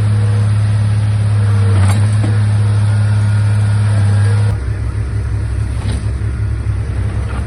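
Komatsu D31A bulldozer's diesel engine running steadily under load, then easing off about halfway through to a lower, rougher rumble.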